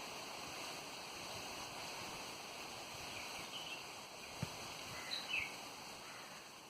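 Steady wind noise, with a few short high bird chirps about halfway through and again near the end.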